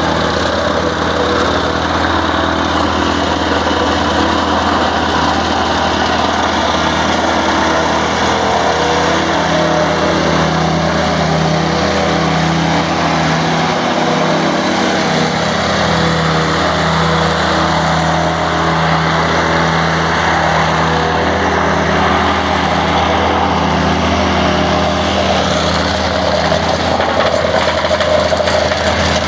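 An engine running steadily and loudly throughout.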